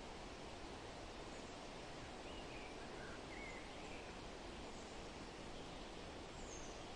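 Steady rustling of wind through forest leaves, with a few faint, short bird chirps in the middle and one higher chirp near the end.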